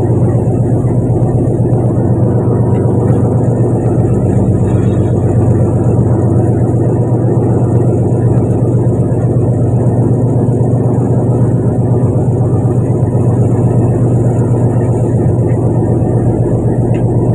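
Fishing boat's engine running steadily at an even pitch, loud and unchanging throughout.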